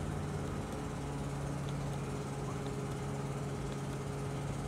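A 2017 Nissan Sentra's engine idling with a steady low hum, heard from inside the car's cabin.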